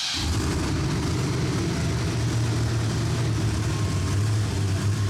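Monster truck engine catching right at the start and then running steadily with a low, even hum.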